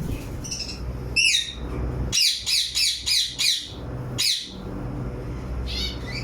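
Parakeets squawking: harsh, falling screechy calls, one about a second in, then a quick run of five, another around four seconds, and a fainter one near the end.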